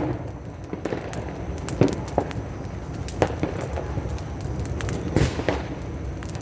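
Firecrackers going off, with about half a dozen sharp, scattered bangs over a steady background din of further distant popping.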